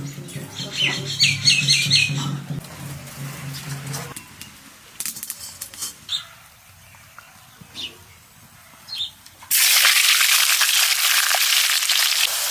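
A quick run of bird chirps near the start, over a low steady hum. About nine and a half seconds in, a loud, steady sizzle starts suddenly: food going into hot oil and frying.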